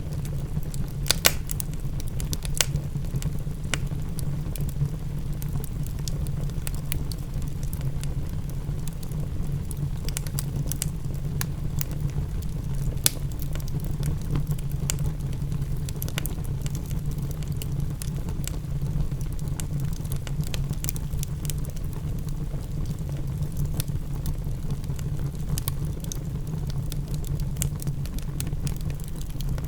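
Wood fire crackling in a fireplace: irregular sharp pops and snaps over a steady low rumble. The loudest pops come about a second in and near the middle.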